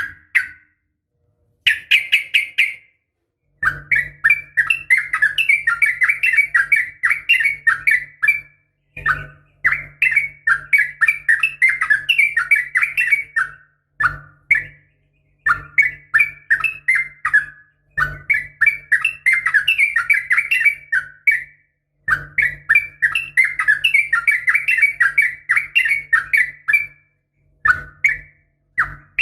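Yellow-vented bulbul (trucukan) calling in long runs of fast chattering notes, each run a few seconds long with short pauses between, the rolling "ropel" fighting song used as a lure. A faint low hum sits under each run.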